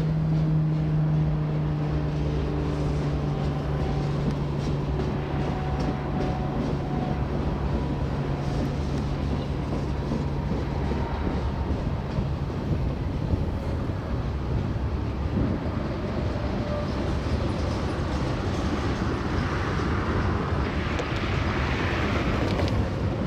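Freight train rolling on the track with a steady rumble, led by a diesel locomotive's steady engine drone that fades out about halfway through. A rushing hiss swells briefly near the end.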